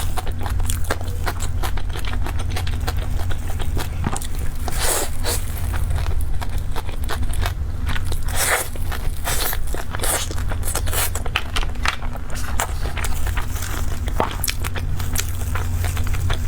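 Close-miked eating: crunchy bites and chewing with irregular clicks and scraping, over a steady low hum.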